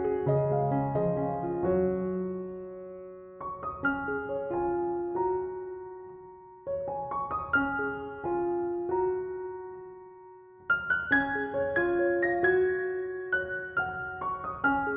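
Solo piano music: short phrases of struck notes that ring and fade away, a new phrase starting every three to four seconds.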